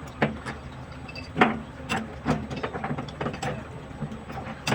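Irregular sharp clicks and knocks, a few a second, over a low steady hum.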